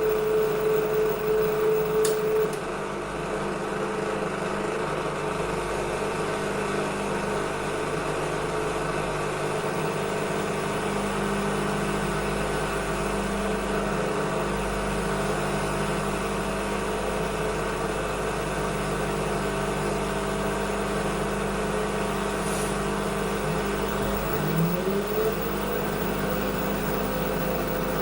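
Washing machine running with a steady mechanical hum. A whine stops about two and a half seconds in and the sound drops a little, and near the end a rising whine comes in as the motor speeds up.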